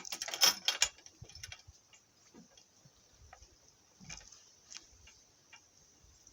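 Irregular clicks and knocks of a donkey cart and its harness jolting over rough, bumpy ground: a loud cluster of rattles in the first second, then scattered light ticks.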